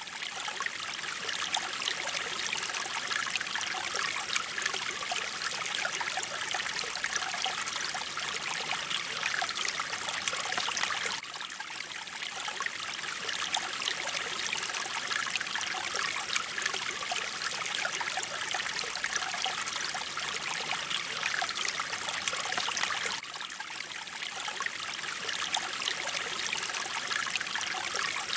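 Mountain stream flowing and trickling over rocks: a steady, dense rush of water, slightly quieter for a moment about eleven seconds in and again near the end.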